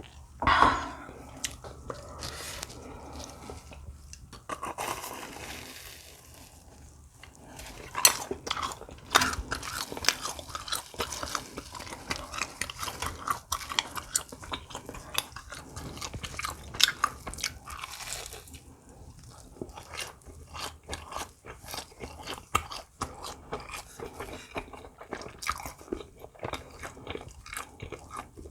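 Close-miked eating: crunchy bites and steady chewing of fried snacks, with a loud bite right at the start and dense crackling chews through the middle.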